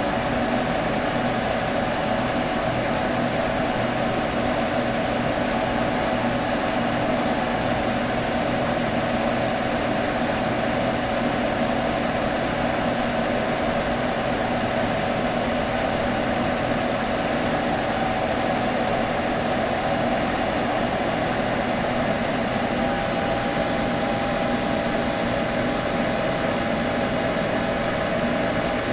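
Computer humming steadily: an even whir with a few constant tones in it that stays unchanged throughout.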